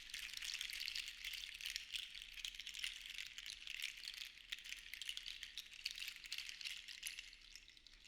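Seashells rattling and clicking against one another as they are shaken, in uneven swells that die away near the end.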